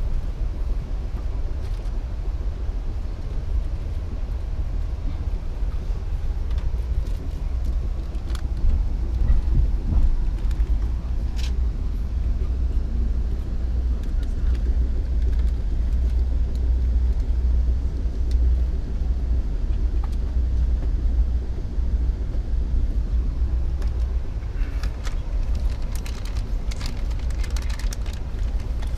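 Passenger train running, heard on board: a steady low rumble, with a few sharp clicks and a burst of rattling near the end.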